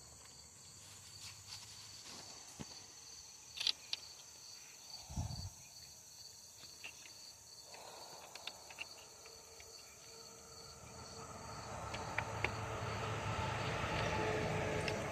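Crickets chirping steadily, with scattered clicks and a dull knock from parts being handled. In the last few seconds a broad rushing noise swells up.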